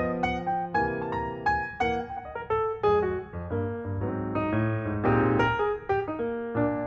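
Background piano music: a melody of quick, separate notes over a steady bass line.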